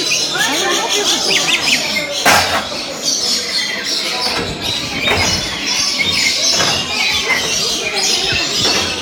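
A flock of birds chattering and squawking continuously, many calls overlapping, with people's voices mixed in.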